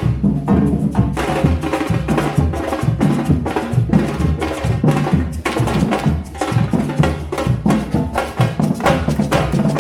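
Parade drumming: drums and other percussion in a quick, steady rhythm of sharp strikes.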